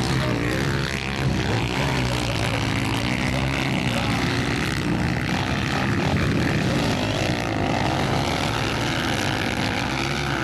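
Motocross bikes' engines revving hard, with several overlapping engine notes rising and falling in pitch.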